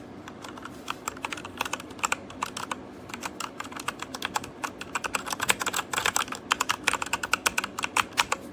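Fast typing on a Redragon K617 Fizz 60% mechanical keyboard: a dense run of keystroke clicks that grows louder and quicker about halfway through.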